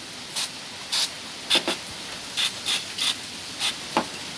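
WD-40 aerosol sprayed in a series of short hissing puffs, about two a second, onto the wiper arm's spring hinge to lubricate it, because the arm has lost its pressure on the glass and the blade chatters.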